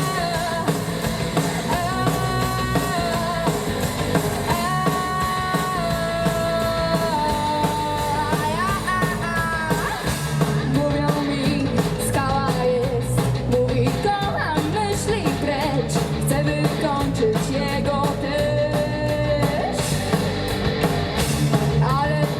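Live rock band playing loud: guitars, bass and drums, with a held, sliding melody line over the first half and busier drum and cymbal hits after about ten seconds.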